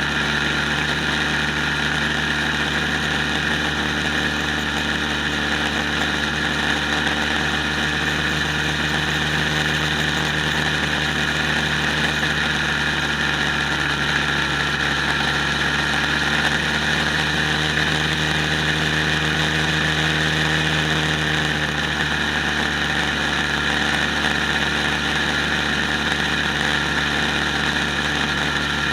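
Quad bike engine running steadily, its pitch sagging slightly midway and then recovering.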